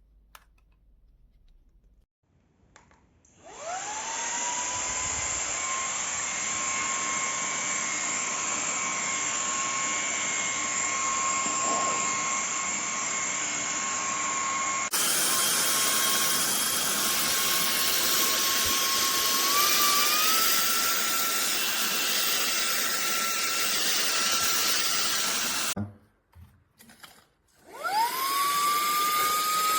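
Cordless handheld vacuum cleaner switched on about three seconds in, its motor whining up to speed and then running steadily with a rushing airflow hiss. The pitch steps up slightly around twenty seconds in. The vacuum cuts off near the end and spins up again in the last two seconds.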